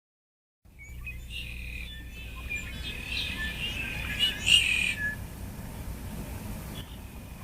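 Countryside ambience: many birds chirping over a steady low rumble of background air. It starts suddenly out of silence just under a second in.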